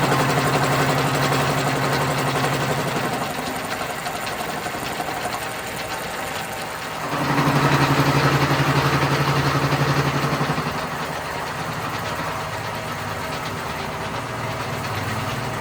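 A motor-driven machine running with a steady, even-pitched hum, growing louder for a few seconds at the start and again about seven seconds in.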